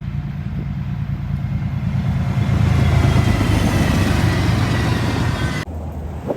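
A train passing: a diesel locomotive's low, steady engine rumble with wheel and rail hiss over it, growing louder toward the middle. The high part of the sound drops out abruptly near the end.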